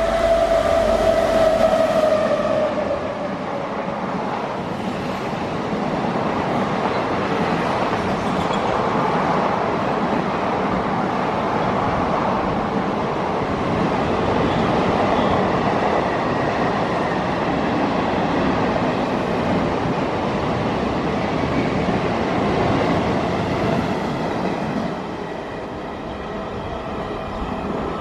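Indian Railways express train hauled by an electric locomotive passing at speed. The tail of the locomotive's horn fades out over the first two or three seconds, then comes the steady noise of the passenger coaches' wheels running over the rails, which drops lower about 25 seconds in.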